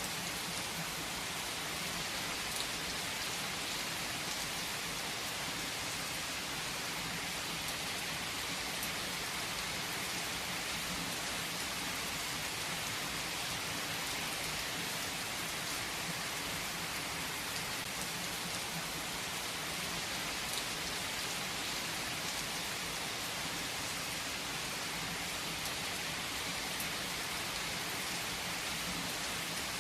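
Steady rain falling, an even hiss with scattered individual drops, unchanging throughout.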